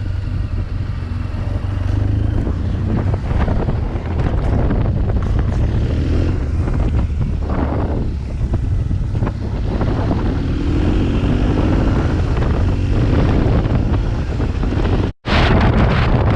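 BMW R1200 GS boxer-twin engine running as the motorcycle rides off, its pitch rising a few times as it accelerates, with wind buffeting the microphone. The sound cuts out for a moment near the end.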